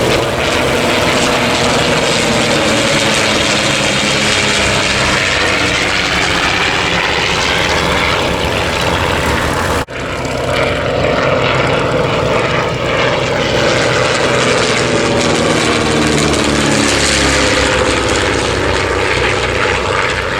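Propeller-driven piston-engined aircraft flying low past, the engine note falling in pitch as it goes by. A cut near the middle is followed by a second pass, its note again dropping as it passes.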